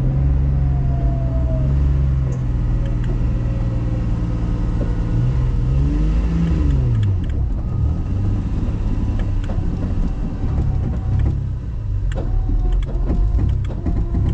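Vehicle engine running steadily, revving up and dropping back once about six seconds in, then a rougher, uneven rumble with scattered small knocks.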